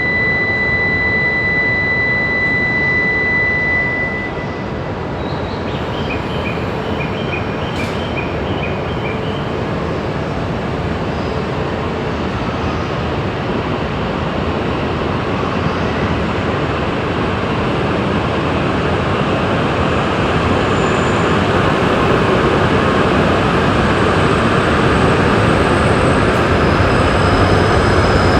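A Shinkansen high-speed train at a station platform, its rushing running noise growing steadily louder through the second half. A steady high electronic tone sounds for the first few seconds, and a short run of pips follows a couple of seconds later.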